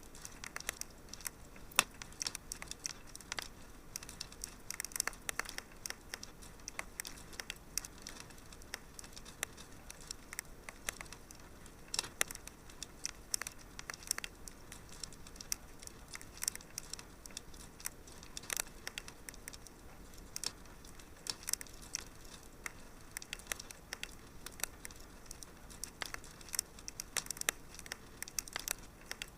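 Wood fire crackling in a fireplace: irregular sharp pops and snaps, several a second, over a faint steady hiss, with a louder pop about two seconds in.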